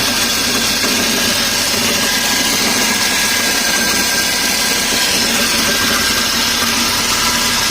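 Mercedes-Benz S300 engine running, with a loud, steady noise from the front accessory drive that the mechanic suspects is a failed alternator bearing rattling, plus noisy idler pulleys.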